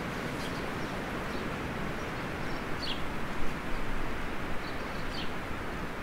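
Birds chirping faintly now and then, short single calls, over a steady rushing outdoor background.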